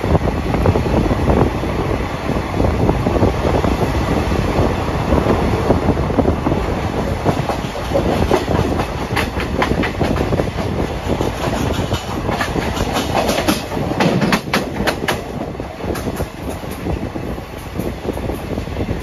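Wheels of a moving express passenger train running on the track, heard from aboard the coach: a steady rumble with clickety-clack, and a quick run of sharp clicks in the middle as the wheels cross joints or points.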